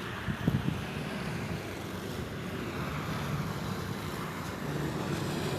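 Steady low rumble of distant road traffic with wind buffeting the microphone, during a snowstorm; a few brief knocks sound about half a second in.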